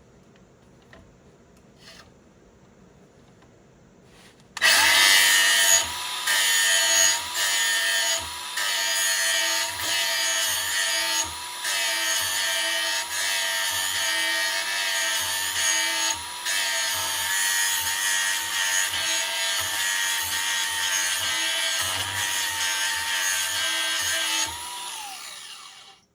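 A small power tool grinding the edge of a steel lawn tractor mulching blade: the motor starts suddenly about four and a half seconds in and runs steadily, with the grinding varying as the blade is worked against the wheel, then winds down with a falling pitch near the end.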